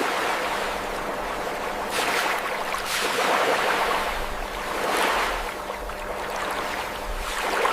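Rushing water, a steady wash that surges and ebbs every second or two, like waves breaking.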